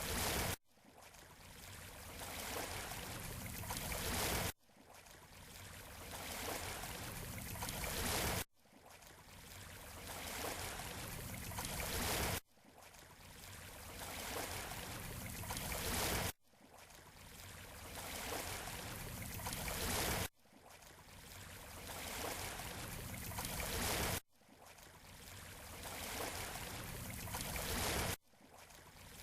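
Surf washing on a beach shore, as a short recording looped about every four seconds: each loop rises in loudness and then cuts off abruptly into a brief gap before starting again.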